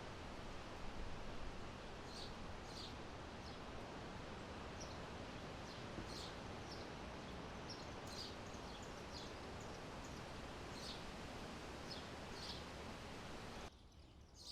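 Forest ambience: a steady, even background rush with many short, high bird chirps scattered through it. The ambience cuts off suddenly near the end.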